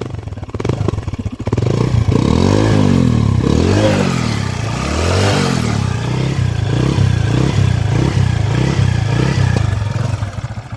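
Hero Passion Pro 100 cc single-cylinder motorcycle engine running, revved in three blips that each rise and fall in pitch, then running at a lower, steadier speed. The dealer presents it as a very good engine sound.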